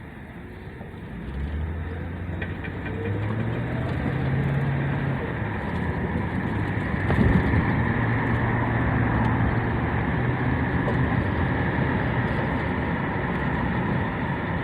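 2008 Ford Crown Victoria's 4.6-litre V8 running and picking up speed about a second in, its pitch climbing in steps. A steady high whine sits over it through the second half. This is the unidentified noise the owner is trying to trace, described as clicking that turns into a whirring.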